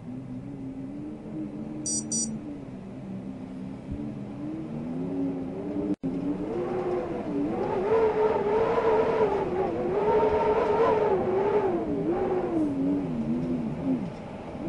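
Wind howling: a pitched moaning tone that wavers slowly up and down, growing louder and higher about six seconds in. It cuts out for an instant just before that.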